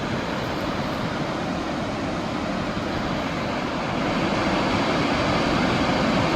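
Waterfall: a steady rush of falling water, a little louder from about four seconds in.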